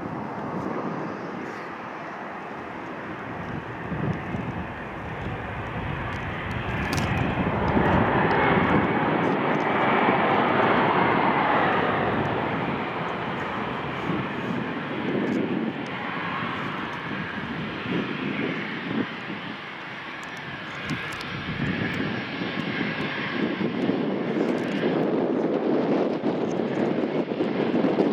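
Business jet's turbofan engines running, a continuous rushing jet noise that grows loudest about eight to twelve seconds in, eases off, then swells again near the end.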